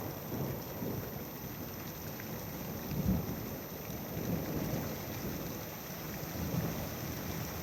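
Thunder rumbling over steady rain, swelling and fading in low rolls, loudest about three seconds in.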